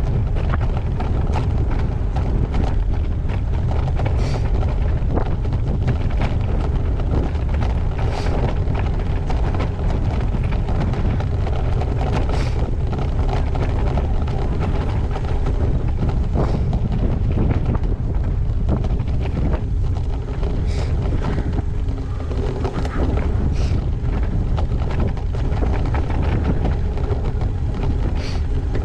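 Wind rumbling over a GoPro's microphone while riding a gravel bike, with tyre and bike noise and scattered short clicks and rattles.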